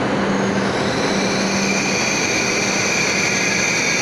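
Hokuriku Shinkansen E7/W7-series train pulling into the platform and slowing to a stop: a steady rushing of the train passing close by, with a high whine coming in about a second in.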